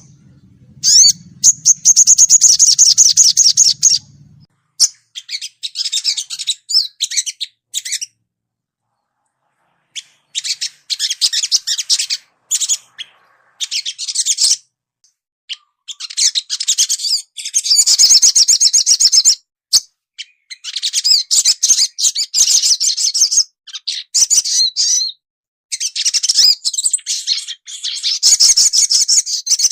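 Crimson sunbird (sogon) song: bouts of rapid, high-pitched twittering and chirping, each lasting one to three seconds, separated by short pauses, with a longer silence about eight seconds in.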